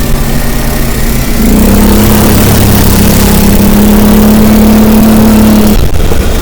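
Vehicle engine running under load while driving; its pitch steps up and grows louder about a second and a half in, holds steady, then drops off near the end, as in a shift or easing off the throttle.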